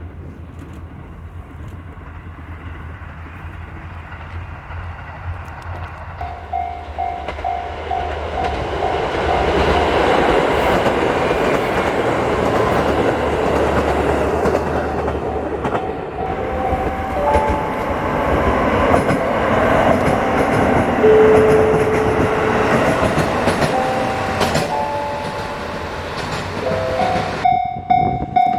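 Train running, its noise swelling from about six seconds in and staying loud through the middle, with short steady tones that step up and down in pitch. Near the end a steady pulsing tone starts.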